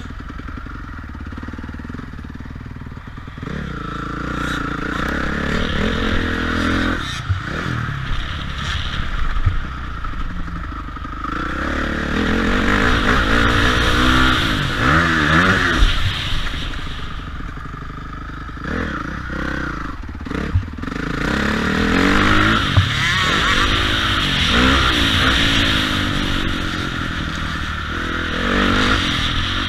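Motocross bike engine revving hard and easing off over and over, its pitch climbing and falling with throttle and gear changes, with brief cuts in the throttle twice.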